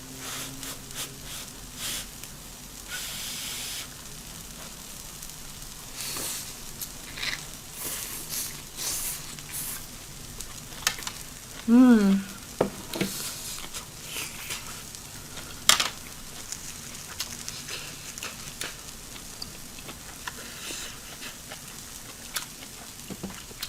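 Shrimp and vegetables sizzling steadily on an electric tabletop grill, with scattered sharp clicks of utensils and eating. About halfway through there is a short, low, wavering vocal sound, the loudest thing here.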